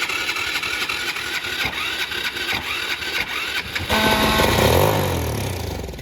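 Small gas engine on a Power Wheels quad sputtering roughly on starting fluid, with no carburettor fitted. About four seconds in it catches and revs up briefly, then slows and dies away.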